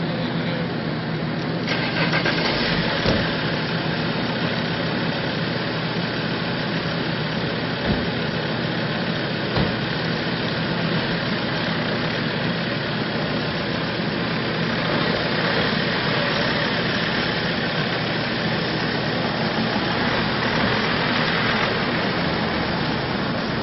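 Motor vehicle engine running steadily under a constant hiss, with a few brief knocks.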